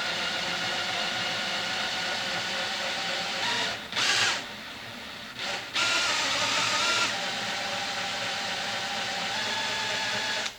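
Power drill running steadily, drilling out the pop rivets on a plastic compost tumbler's lid ring. The tone shifts as the bit loads up, with a brief harsher burst about four seconds in, and the drill cuts off suddenly at the end.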